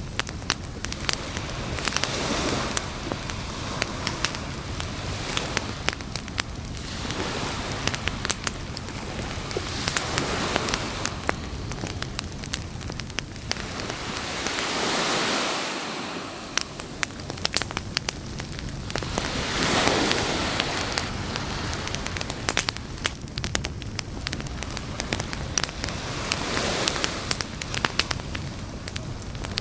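Wood campfire crackling with many sharp pops, over the wash of waves on a beach that swells and fades every few seconds.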